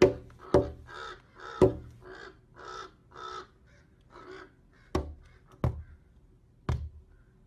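A bird giving a run of short harsh calls, about two a second, that tails off after four seconds or so. Six sharp knocks are scattered through it and are the loudest sounds.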